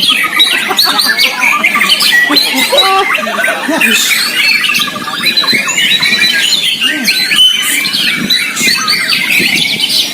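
Many caged white-rumped shamas (murai batu) singing at once: a dense, continuous tangle of overlapping whistles, trills and rapid chatter.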